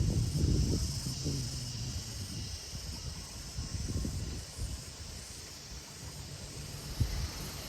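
Outdoor garden ambience: a steady high chirring of insects, with low rumbling in the first couple of seconds and a single short knock about seven seconds in.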